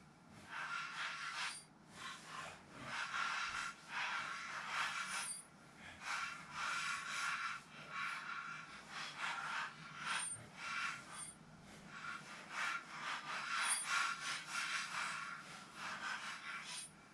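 Repeated rasping, scraping strokes from hand-tool work on the motorcycle's fasteners, coming in clusters of short bursts that stop and start every second or two.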